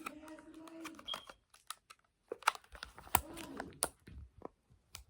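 Irregular sharp clicks and crinkles from handling and biting into a gummy candy slider close to the microphone, after a short hummed voice in the first second.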